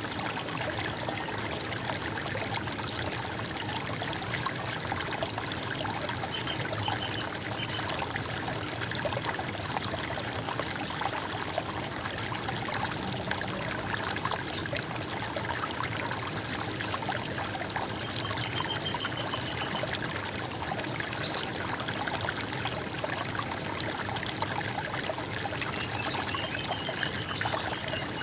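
Running water trickling and burbling steadily, with a few short, high bird calls now and then.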